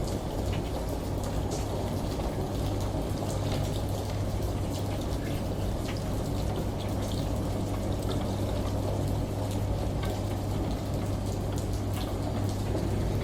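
Layered water ambience: a shower running and rain pattering in small, scattered drops over the steady low hum of a washing machine running. The mix holds an even level, with no breaks.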